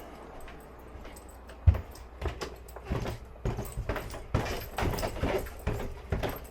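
Irregular clicks and knocks of a furnace drain part being handled and rinsed out at a sink, with one sharp knock about two seconds in.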